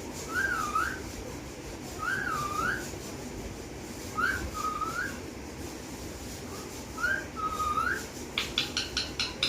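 Pet parrot whistling the same short wavering up-and-down phrase four times, with pauses between. Near the end comes a quick run of clicks.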